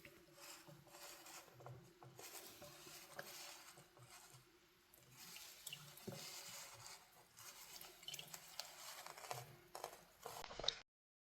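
Faint sounds of houseplants being watered: water trickling and dripping into pot soil, with small clicks and knocks of handling. It cuts off suddenly near the end.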